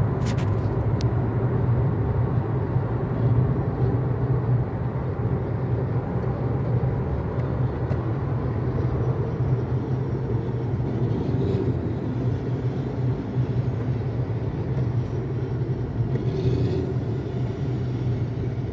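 A vehicle engine running steadily with a low, even rumble, with a few sharp clicks at the very start.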